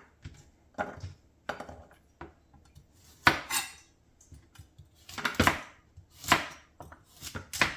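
Kitchen prep clatter as carrots are sliced and laid in a baking dish: a knife and carrot slices knocking against a cutting board and dish in irregular sharp clacks, a few louder ones toward the middle and end.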